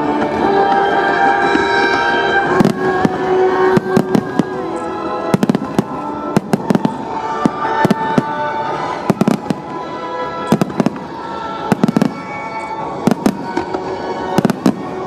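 Fireworks bursting overhead in a run of irregular sharp bangs and crackles, over music with held tones playing throughout.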